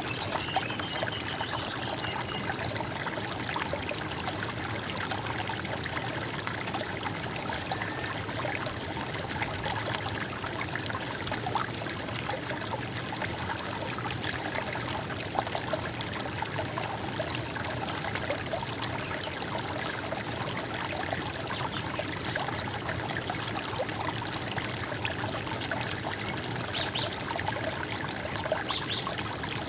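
Running water flowing steadily, an even noise with no break or change.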